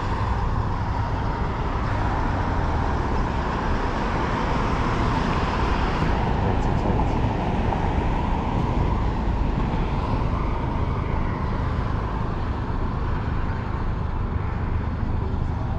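Steady rush of wind on the microphone with tyre and road noise from a road bike riding at speed.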